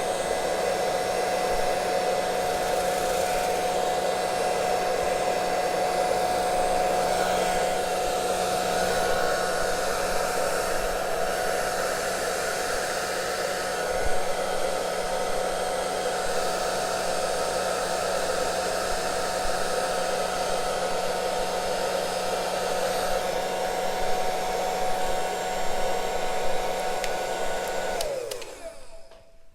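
Handheld hair dryer running steadily, blowing poured acrylic paint across a canvas. It is switched off near the end, and its hum falls in pitch as the motor spins down.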